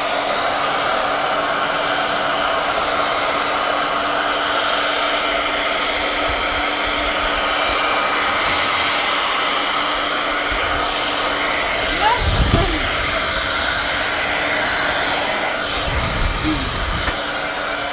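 Hand-held electric dryer blowing steadily with an even hum, drying wet watercolour on a paper page. Brief low rumbles come about twelve and sixteen seconds in.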